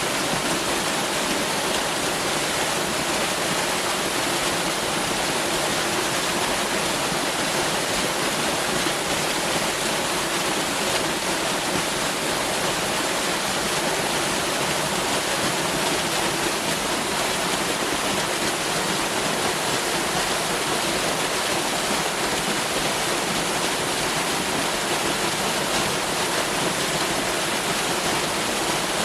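Waterfall: water falling and rushing in a steady, even roar with no breaks or changes.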